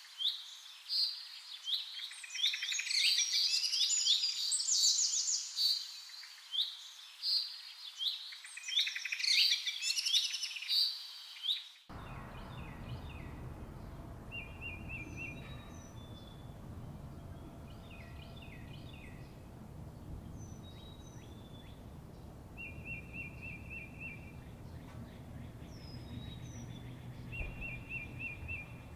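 Zebra finches calling and singing, with many loud, quick nasal calls overlapping. About twelve seconds in, the sound cuts abruptly to quieter chirps and short buzzy trills over a low steady rumble.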